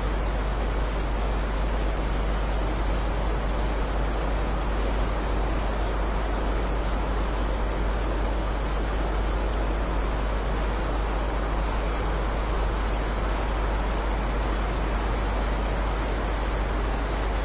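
Steady heavy rain, an even unbroken hiss with a constant low rumble underneath and no separate drops or thunder standing out.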